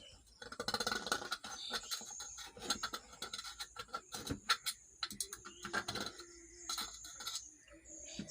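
Irregular scraping and clicking as candle wax is cleaned out of a ceiling fan's bearing housing.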